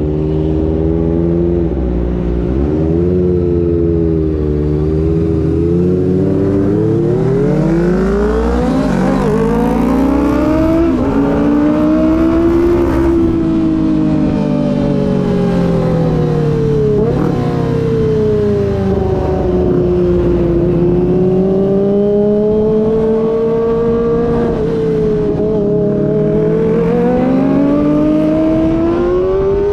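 Kawasaki ZX25R's 250 cc inline-four engine running under way, its pitch climbing with throttle and falling off, with sudden drops at gear changes several times.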